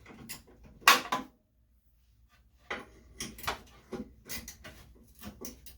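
Hand tools and metal parts being handled while fasteners are worked off the car: one louder clunk about a second in, then a run of irregular short clicks and knocks.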